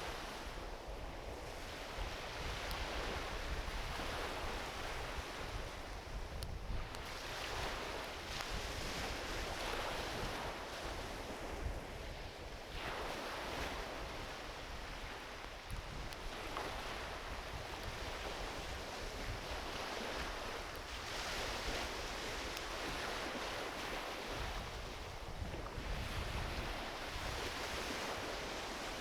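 Gentle ocean waves washing onto a beach, the surf swelling and falling back every few seconds, with a few faint pops from a driftwood campfire.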